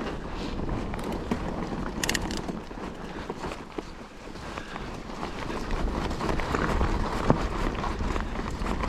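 Mountain bike (a Calibre Triple B) riding a dry, loose trail: tyres rumbling and crunching over dirt and stones, with chain and frame rattling and wind on the microphone. A brief high squeak about two seconds in; the noise grows louder in the second half.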